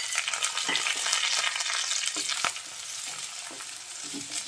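Chopped green chillies and garlic-ginger paste sizzling in hot mustard oil in a kadhai, stirred with a wooden spatula that scrapes and knocks against the pan. The sizzle is strongest at first and eases off about halfway through.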